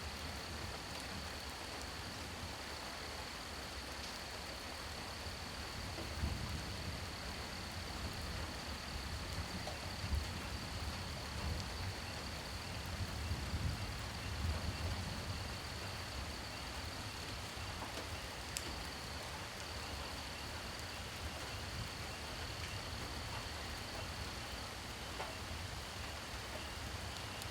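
Steady rain falling at night, an even hiss with a thin, steady high-pitched tone over it. A low rumble swells for several seconds in the middle.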